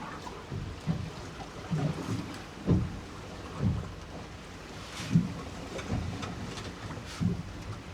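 Choppy sea slapping against the hull of a small fishing boat in irregular low thumps, roughly one a second, with wind on the microphone.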